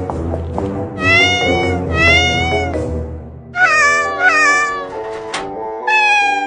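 Kitten meowing repeatedly, about five drawn-out meows, some falling in pitch, over background music.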